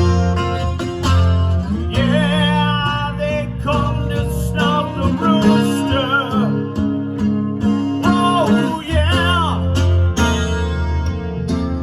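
Rock music with no vocals: a lead guitar plays bent, wavering notes over the band's chords, bass and drums.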